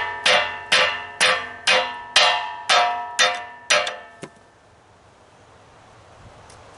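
Hammer blows on a metal part of a Dewalt air compressor being broken apart, about two strikes a second, each ringing with a metallic tone. The blows stop about four seconds in.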